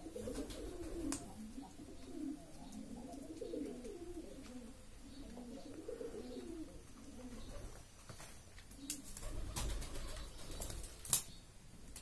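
Low, wavering cooing calls of a bird, going on for the first seven seconds or so, followed by a few sharp clicks and knocks, the loudest one near the end.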